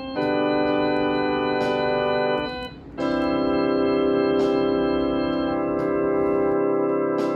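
Electronic keyboard music in an organ-like voice: one long held chord, a brief break about two and a half seconds in, then a second sustained chord.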